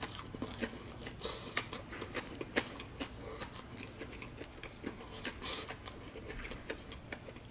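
Chewing a mouthful of Shake 'n Bake crumb-coated baked chicken drumstick: many short, irregular crunches of the crisp coating.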